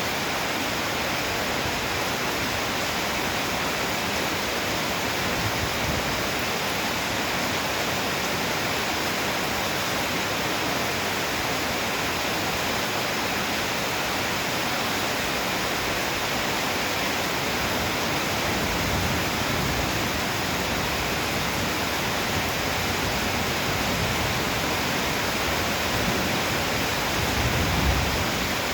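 Heavy downpour of rain, a steady dense hiss. Low rumbles swell twice in the second half, the louder one near the end.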